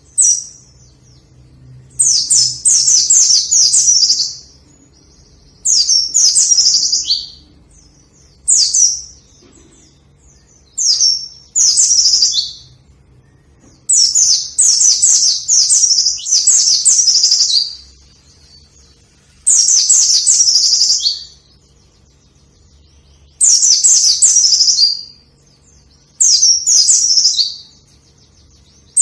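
A white-eye (pleci) singing vigorously: about ten rapid, high-pitched warbling phrases, each lasting from half a second to a few seconds, repeated every two to three seconds.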